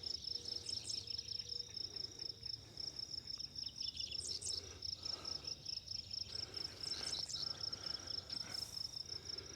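Insects chirping in a steady, rapid pulsing trill, with a few faint clicks and rustles now and then.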